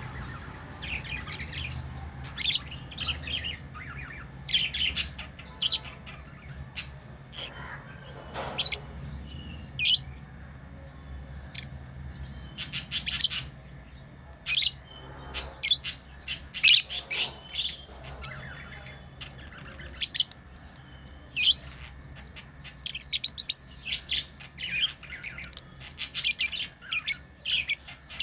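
Pet lovebirds chirping: a steady stream of short, sharp, high-pitched chirps and occasional squawks, coming in quick irregular clusters from several birds at once.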